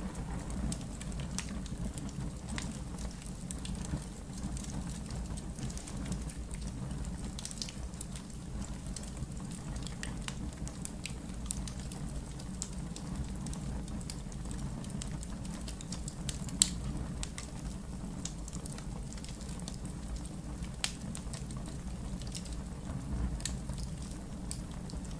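Wood fire burning in a fireplace: a steady low rumble of flames with scattered sharp crackles and pops, one pop louder than the rest a little past the middle.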